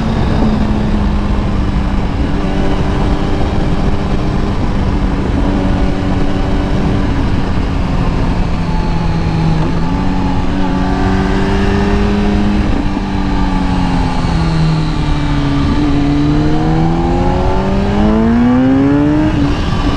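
Kawasaki ZX-10R's inline-four engine running at steady revs under a constant rush of noise, its pitch stepping and sagging slightly around the middle, then rising steeply for about two seconds near the end as the bike accelerates.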